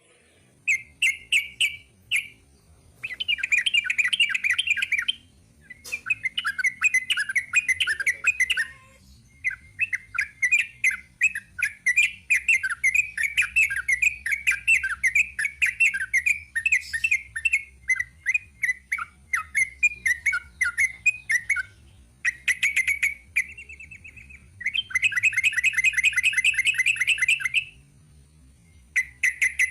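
Sooty-headed bulbul (trucuk) singing its rapid chattering 'ropel' song: long runs of quick repeated notes broken by short pauses.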